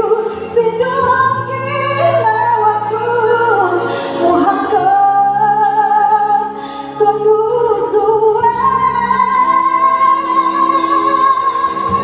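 A singer performing a slow ballad melody over instrumental backing, with wavering held notes and one long sustained note near the end.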